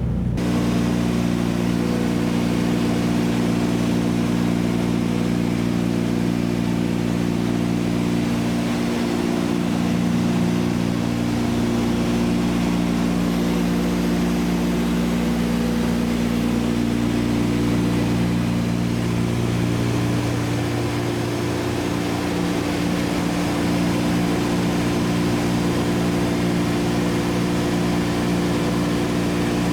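Steady drone of a Douglas DC-3's twin radial engines in cruise flight, heard from inside the cabin, with the tones of the two engines drifting slightly in and out of step.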